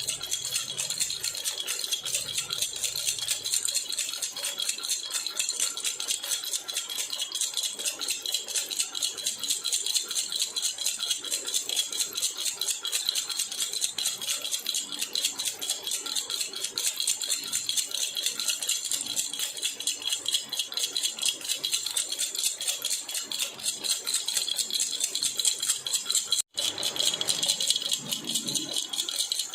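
Silver jhunjhuna, a metal baby rattle, shaken steadily: a fast, dense, bright jingling of small metal pieces. It cuts out for an instant near the end, then carries on.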